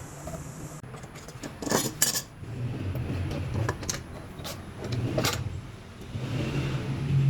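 Several sharp knocks and clinks of hard objects being handled, over a low hum that comes and goes.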